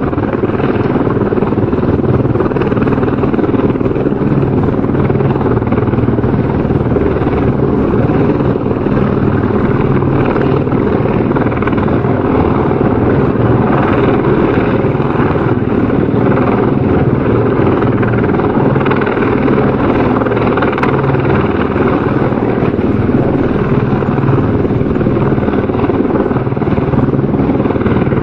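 Helicopter rotor and engine running steadily, with a rapid, even beat of the rotor blades over a constant rushing noise.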